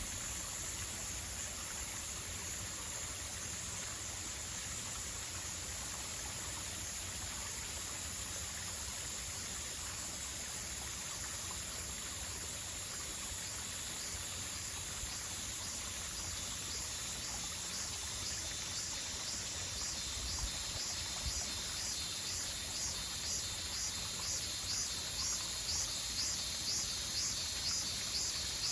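Insects calling over a steady hiss: a continuous high drone, and from about halfway through a rhythmic pulsing chirp, a little over one pulse a second, that grows louder toward the end.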